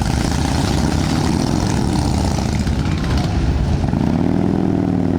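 Motorcycle engines running with a steady low rumble. About four seconds in, one engine's pitch rises and falls.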